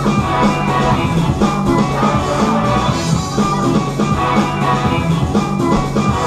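A band playing rock music with a drum kit and guitar, keeping a steady beat.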